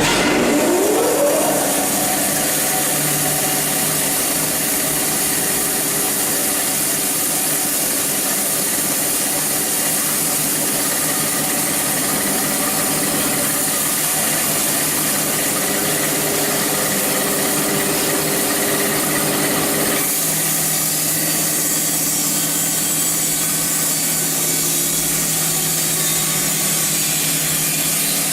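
Narrow-blade bandsaw mill running and sawing through a log: the drive speeds up in a rising whine over the first second or so, then runs steadily with the blade cutting, the tone shifting slightly about two-thirds of the way through.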